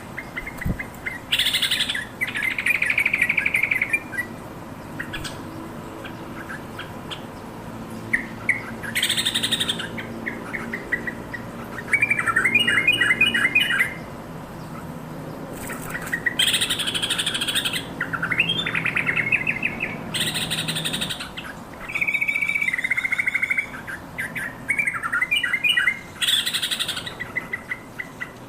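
Yellow-vented bulbul (trucukan) singing: short bubbly, chattering phrases every second or two, mixed with harsh scratchy calls.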